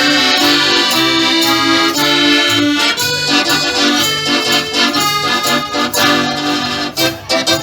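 Live folk band playing an instrumental break between verses: an accordion carries the tune over a regular, bouncing bass line, and the rhythm grows choppier near the end.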